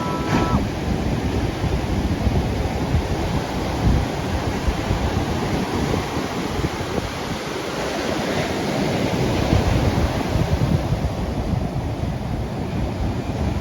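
Ocean surf breaking and washing on a beach, a continuous rushing noise that swells and eases, with wind buffeting the microphone.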